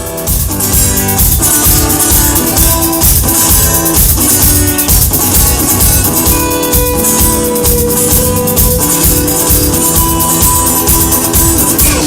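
Live rock band playing an instrumental opening: drums keeping a steady beat under guitar.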